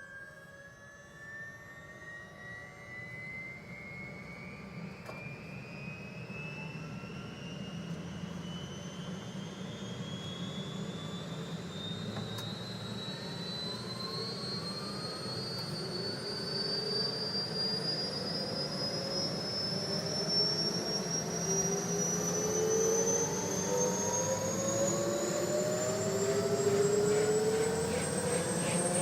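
Turbine engines of a Bell UH-1N Twin Huey helicopter spooling up, heard on board. A turbine whine rises steadily in pitch as the sound grows louder, over a low rumble. Lower rising whines join about halfway.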